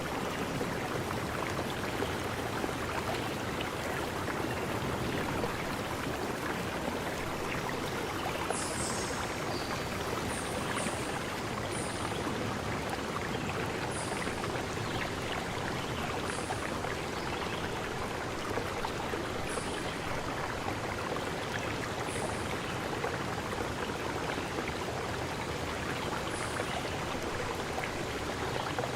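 Stream water flowing with a steady rush. From about a third of the way in, a short high chirp comes every two to three seconds.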